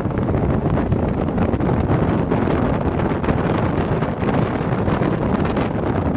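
Wind buffeting the microphone over the steady running noise of a moving passenger train, heard from the side of a coach.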